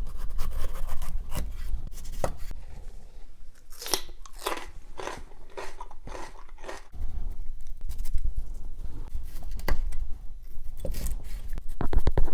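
Kitchen knife crunching through a raw bell pepper and tapping the cutting board in separate cuts, with a quick run of cuts near the end.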